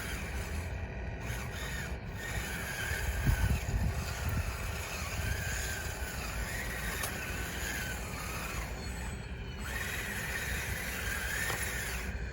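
Radio-controlled bulldozer's electric drive motors whining, the pitch rising and falling several times as it moves, over a low rumble with a louder scraping patch about three seconds in.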